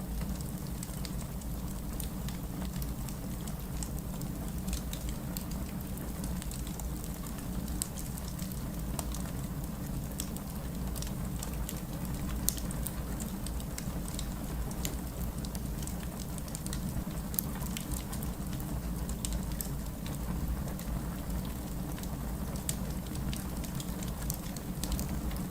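Wood campfire burning, with a steady low rush under frequent small crackles and pops.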